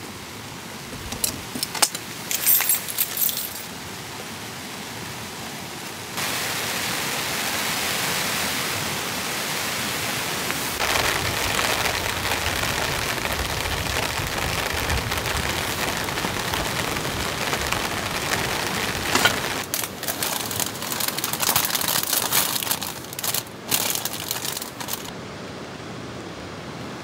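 Heavy rain falling steadily, the downpour stepping up in level about six seconds in. Short bursts of rustling and clinking come near the start and again toward the end.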